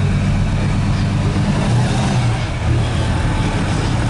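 Car engine running with a loud, deep rumble whose pitch shifts a little a couple of times.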